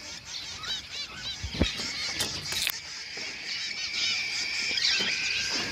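Caged zebra finches calling all together: many short, nasal, honk-like beeps and chirps overlapping, with a few light knocks in the first half.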